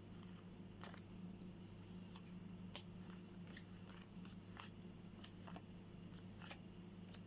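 Faint, scattered soft clicks and taps of playing cards being handled and laid out on a table, over a steady low hum.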